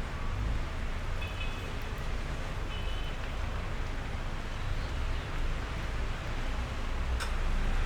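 Steady rain, an even hiss, over a low rumble, with a single sharp click near the end.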